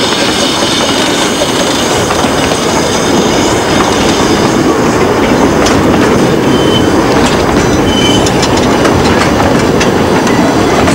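Miniature railway train running on the track, with a steady rumble; from about halfway in the wheels click over rail joints and give a few brief squeals.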